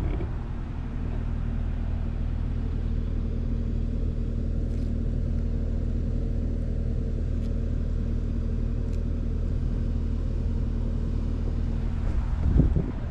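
Skid steer engine running steadily at an even speed, a constant low hum. A short louder noise comes near the end.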